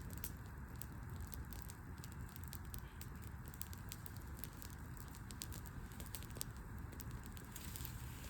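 Wood fire burning in an open garden hearth, crackling with many small sharp pops at an irregular pace over a steady low rumble.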